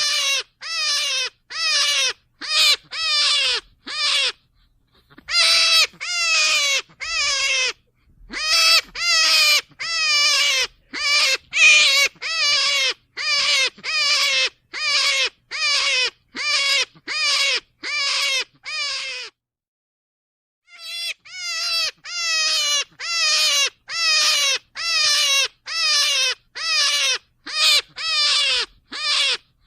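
Rabbit squealing over and over in short, high-pitched cries that fall in pitch, about one and a half a second, with two brief pauses.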